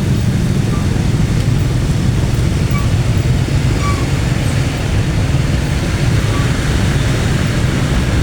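A train passing at a railway crossing: a loud, steady, unbroken rumble.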